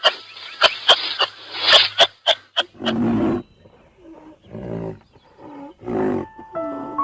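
A lion roaring in a series of three deep, grunting calls about a second and a half apart. They follow a stretch of music with sharp percussive beats.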